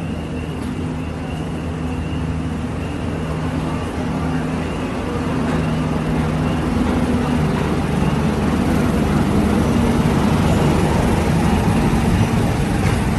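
Wildlife Express steam train pulling into the station: a steady low mechanical hum with a broad rushing noise that grows louder over the last half.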